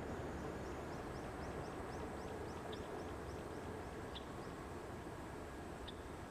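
A higurashi (evening cicada) calls with a rapid run of high, evenly spaced notes, about four a second, that stops about four and a half seconds in. Other short high calls sound about every second and a half over a low rumble that slowly fades.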